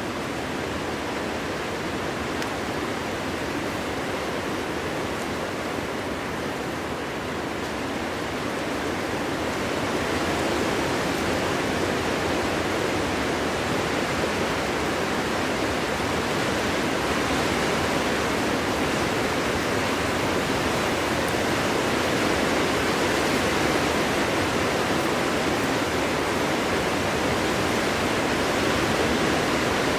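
Strong winter wind blowing through trees: a steady, even rush, swelling louder about ten seconds in.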